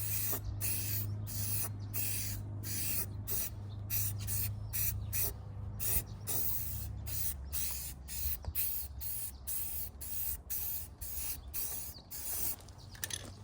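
Aerosol spray-paint can hissing in short repeated bursts, about two a second, as paint is laid onto the truck's bodywork; the spraying stops near the end. A faint steady low hum runs underneath.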